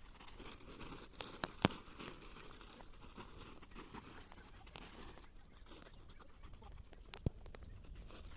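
Faint rustling and handling noise with a few sharp clicks, the loudest about one and a half seconds in.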